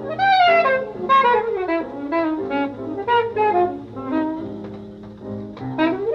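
Jazz music: a horn plays a quick, winding melodic line over a low bass line.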